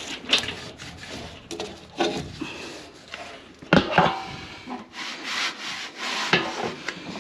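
Hand scrubbing and rubbing on a furnace blower fan and motor to clear caked dust, in irregular scraping strokes, with a sharp knock about four seconds in.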